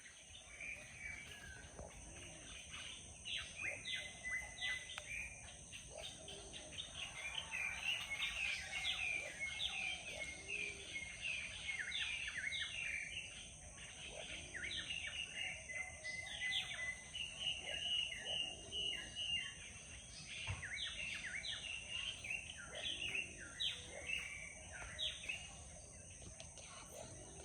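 Several small birds chirping and calling, a dense run of short, quick chirps throughout, over a steady high-pitched whine.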